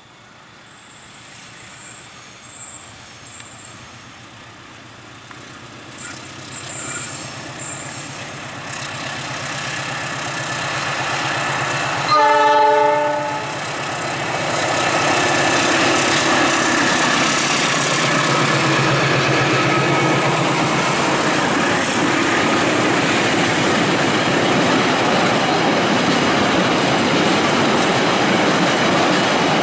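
Diesel-electric locomotive approaching with its engine growing steadily louder, then sounding its horn once for just over a second near the middle. Its train of fuel tank wagons follows, rolling past with steady wheel-on-rail noise and clickety-clack.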